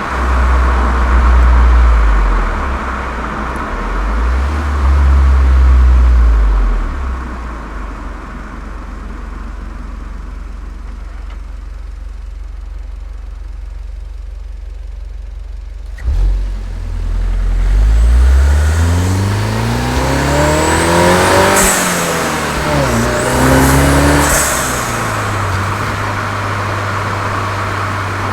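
Volkswagen Golf 7 GTI's turbocharged four-cylinder engine and aftermarket Cox exhaust: a low, loud engine note that eases to a quieter steady run, then a sharp click a little over halfway through, after which the pitch climbs in several rising sweeps, drops briefly, climbs again and settles to a steady low note near the end.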